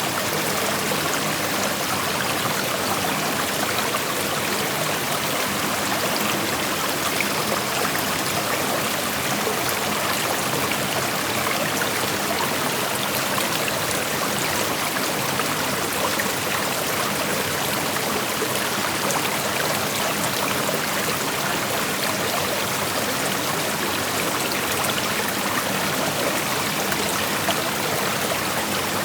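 Creek water flowing over rocks: a steady, even rushing with fine trickling and splashing, unchanging throughout.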